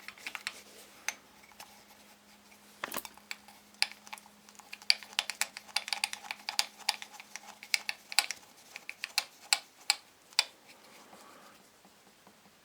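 Irregular light clicks and taps of small metal parts and hand tools being handled, over a faint steady hum that stops about eight seconds in.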